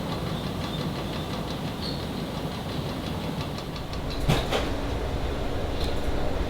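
Heavy factory machinery running with a steady low rumble, with two sharp metallic clanks about four seconds in.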